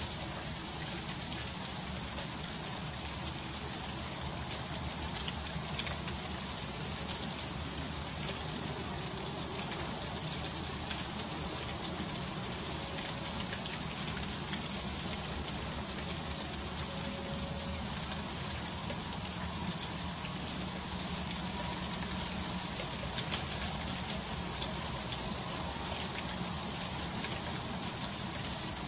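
Freezing rain falling steadily, with a dense patter of fine ticks as drops and ice strike surfaces.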